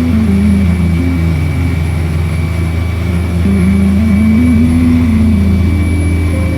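A motorboat engine running with a steady low drone, and a pitched line wavering down and then back up over it.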